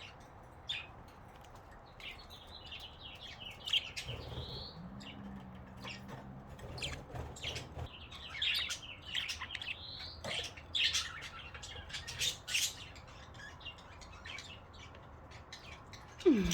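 Budgerigars chirping and chattering in short warbling phrases, mixed with many sharp little ticks.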